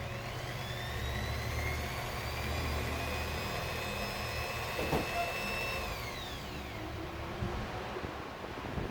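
A small electric motor whining as it spins up, runs at speed for a few seconds, then winds down about six seconds in, over a low steady hum.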